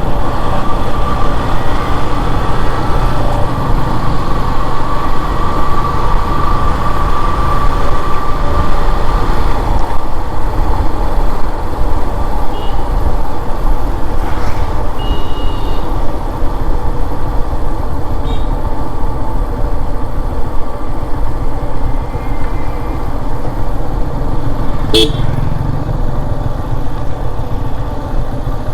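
Yamaha FZS motorcycle riding, its engine and wind noise forming a steady loud rumble, with a few short vehicle horn toots in the middle.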